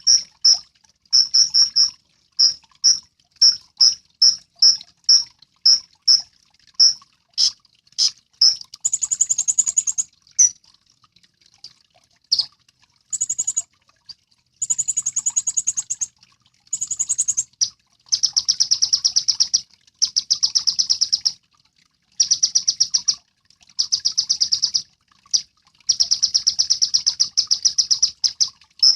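A kolibri ninja sunbird singing: high, short chirps about twice a second at first, then long fast trills, each lasting a second or two, repeated with short pauses.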